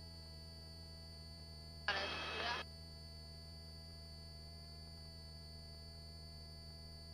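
Steady low hum and a thin high whine on a helicopter's headset intercom feed, with the aircraft's own noise mostly filtered out. About two seconds in, a brief rush of noise lasting under a second as a voice-activated headset microphone opens and closes.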